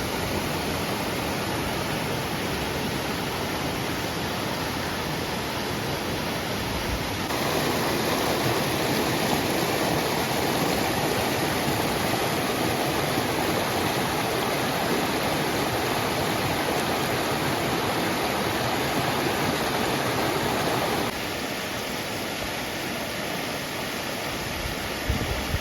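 Yasu Falls, a waterfall, pouring with a steady rushing of water. The rush gets suddenly louder about seven seconds in and drops back about twenty-one seconds in, with a few low thumps on the microphone near the end.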